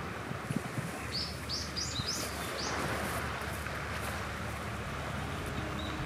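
A bird calling a quick run of about six short, high chirps over steady outdoor background noise.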